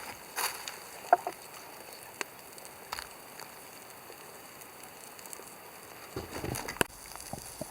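Wood campfire crackling with scattered sharp pops, and a denser patch of crackling and rustling about six seconds in.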